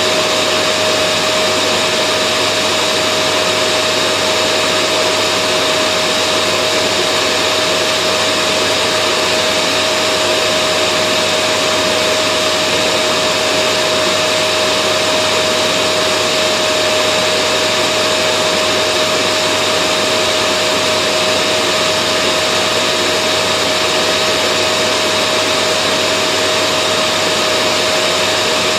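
Vacuum cleaner running steadily: an even rushing hiss of air with a constant motor whine through it.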